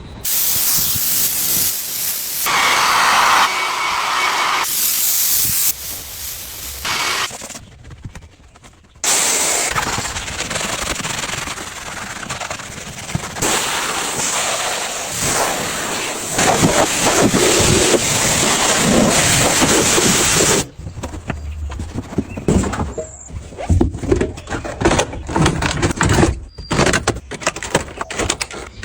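Loud hissing from a car-detailing cleaning tool, in short clips that cut in and out, in the form a steam cleaner or air blow gun makes. About two-thirds of the way through it gives way to a run of sharp clicks, knocks and scraping as interior parts are handled and scrubbed.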